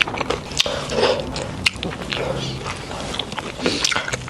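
A person chewing a mouthful of salad close to the microphone, with irregular crunches and small wet mouth clicks.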